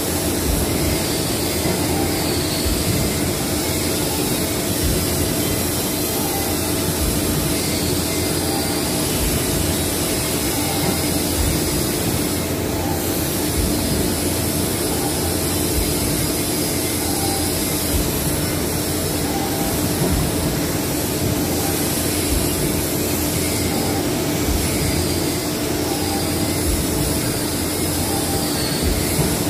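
Machinery running steadily: a constant loud mechanical noise with a steady hum and a faint wavering high whine, unchanging throughout.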